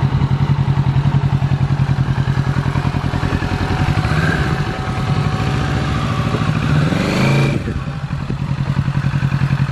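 2020 Kawasaki Z650's parallel-twin engine idling with an even, pulsing beat. Near the middle it is revved once, rising in pitch, then drops sharply back to idle.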